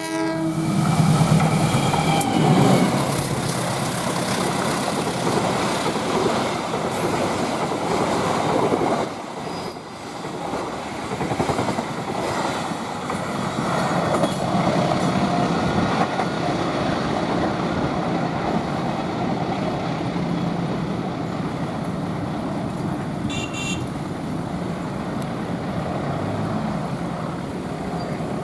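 A train running past at speed: a steady, loud rush of wheels on rail, with the end of its horn blast at the very start and a few short metallic clicks late on.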